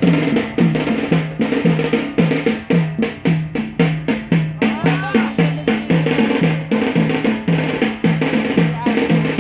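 Drums beating the fast, repeating rhythm of a Yemeni bara' dance, deeper drum notes alternating with sharper, higher strikes.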